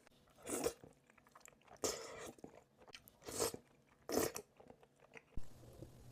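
Close-miked eating sounds: a person biting and chewing food in several separate crunchy mouthfuls about a second apart. Near the end the background changes to a steady low hum.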